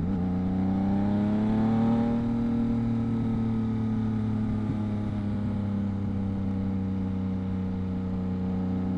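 2022 Yamaha MT-09's three-cylinder engine heard through a Two Brothers aftermarket exhaust while riding. The engine note drops abruptly right at the start, like a gear change, climbs for about two seconds, then settles to a steady cruise.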